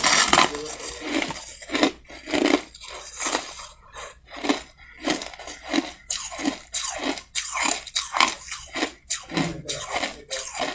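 Soft crushed ice being bitten and chewed close up: a dense run of crunching, then steady chewing with about two crunches a second.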